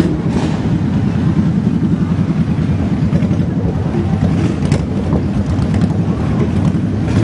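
Motorcycle engines running, a loud, steady, rapid pulsing beat.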